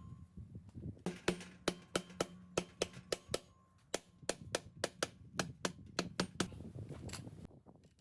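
Repeated light, sharp hammer taps on an engine part, about four a second, with a brief pause midway, stopping shortly before the end.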